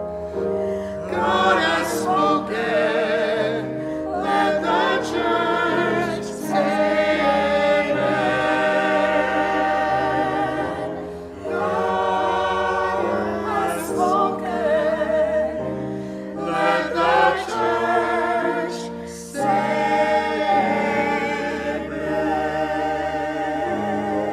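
Church choir singing in harmony, with held, wavering notes in long phrases broken by short pauses.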